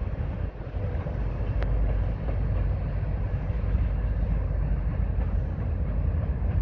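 Freight train cars rolling away over the rails with a steady low rumble. A single sharp click comes about one and a half seconds in.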